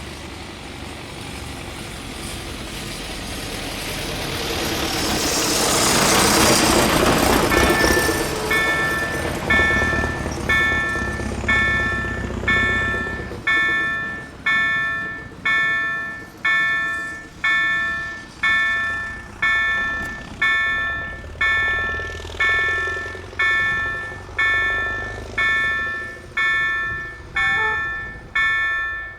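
A 48WEc electric multiple unit passes over a level crossing, its noise and rumble rising to a peak about six seconds in and fading away by about thirteen seconds. From about eight seconds the crossing's warning bell rings steadily, about one stroke every 0.8 seconds, each stroke dying away.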